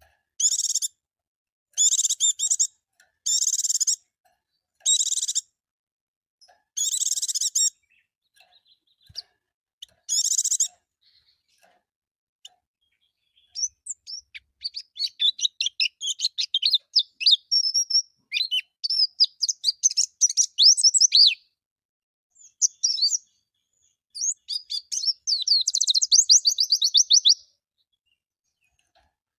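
White-eye (pleci) vocalising: first a string of short, harsh, buzzy calls about every second and a half, then, from about halfway, a long, rapid, twittering song of quick chirps that ends in a fast trill.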